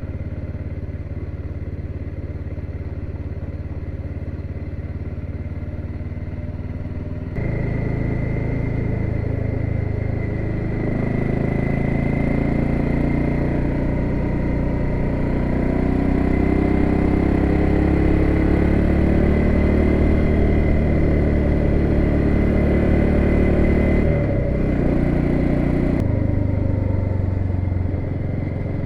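BMW F650GS motorcycle engine running steadily at first. About seven seconds in the sound turns abruptly louder, and the engine pitch then rises and falls over the following seconds, with sudden changes in the sound near the end.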